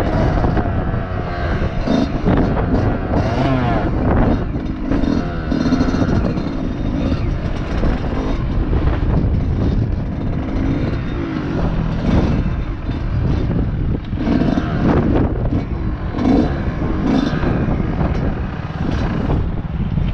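Motocross bike engine revving up and down repeatedly as it rides, the pitch rising and falling every second or two.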